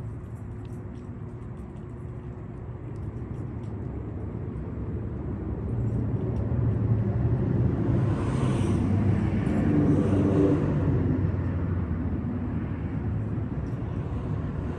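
A car passing by: steady engine and tyre rumble that swells to a peak a little past halfway, then fades.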